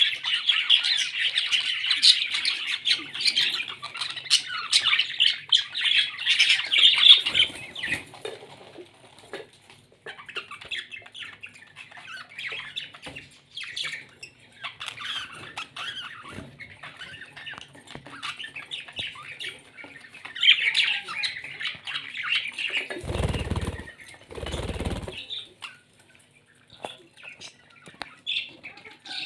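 Pet parrots chattering and squawking, loud and dense at first, then softer and scattered, then loud again a little past two-thirds of the way through. Two short low bursts come close together soon after that loud spell.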